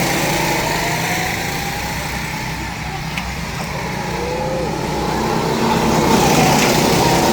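Several small rental go-kart engines running under throttle, the sound easing off in the middle and growing louder again about six seconds in.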